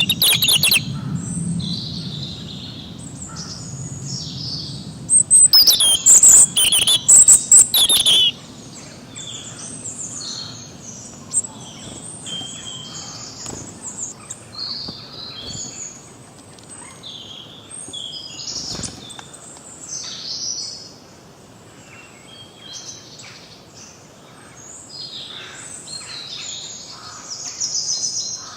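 Several songbirds chirping and singing, overlapping short calls and phrases. A stretch of loud, rapid, harsh chatter stands out from about five to eight seconds in.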